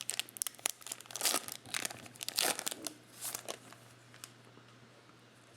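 Trading cards and their plastic pack wrappers being handled, crinkling and rustling in a string of short bursts that die away after about three and a half seconds.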